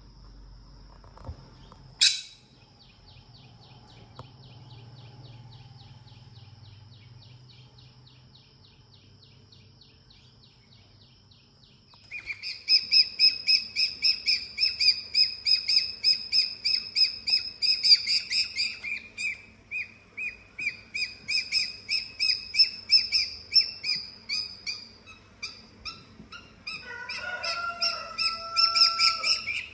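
A steady, high insect trill for the first twelve seconds, with one sharp click about two seconds in. Then loud, rapid bird chirps start, several a second, and lower gliding calls join in near the end.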